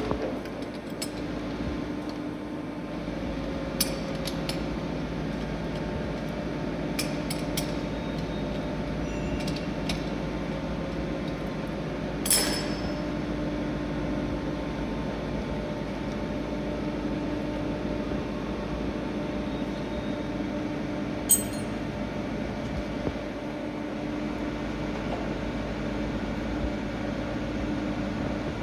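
Metallexport TUD-50 centre lathe running steadily with a constant humming drone, broken by scattered metallic clinks, the loudest a short ringing clink about twelve seconds in.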